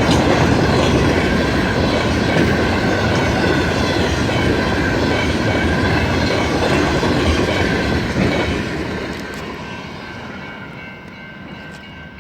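CN freight train's cars rolling past, wheels clattering over the rails with a steady high squeal running through it. About eight seconds in, the sound begins to fade as the train moves away.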